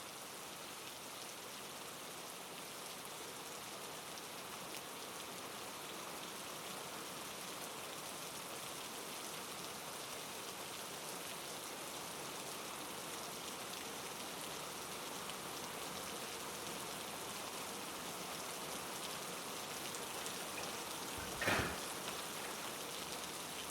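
Steady, even hiss that sounds like rain, with one sharp knock near the end.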